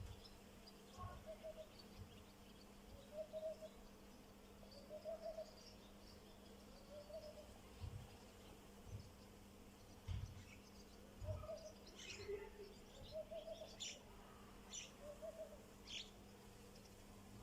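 Birds calling faintly: a short, low, pitched note repeated about every two seconds, with scattered high chirps and a few soft low knocks over a steady faint hum.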